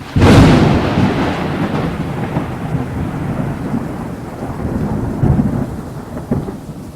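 A sudden crack of thunder, then a long rolling rumble that slowly fades with a few swells, over a hiss of rain.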